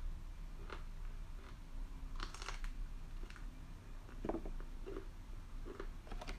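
Brussels sprouts being bitten and chewed: irregular crisp crunches about once a second, with a quick cluster of crunches around the middle.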